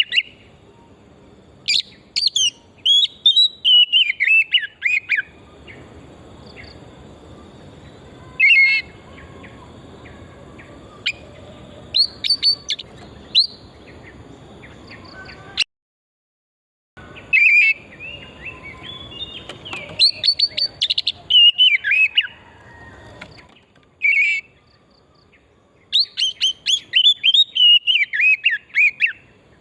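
Oriental magpie-robin singing: loud phrases of varied, quick whistles and trills a few seconds long, separated by short pauses. The sound cuts out completely for about a second a little past the middle.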